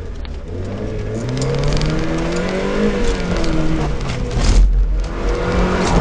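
Car engine heard from inside the cabin, revving up hard with its pitch climbing, then easing off about three seconds in before climbing again, with another drop a little before the end and a fresh climb after it.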